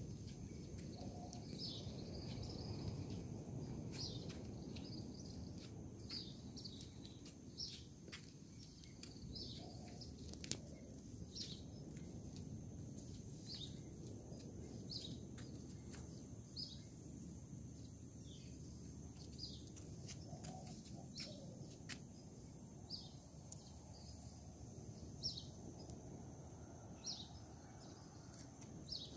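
Outdoor ambience: a bird giving short, high, down-slurred chirps about every second or two over a steady low background noise.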